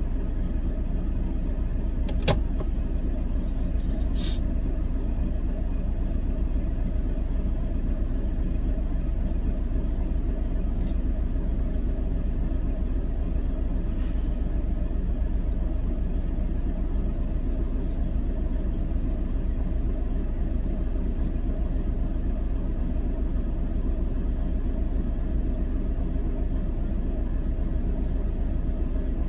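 Diesel engine of a semi truck idling, a steady low rumble heard from inside the cab, with a faint click about two seconds in.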